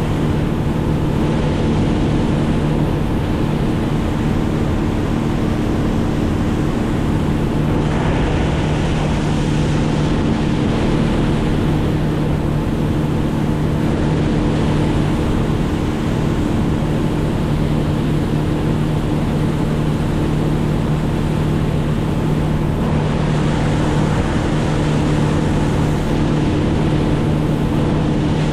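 Motorboat engine running at a steady cruising speed, a constant drone under the rush of water and wind.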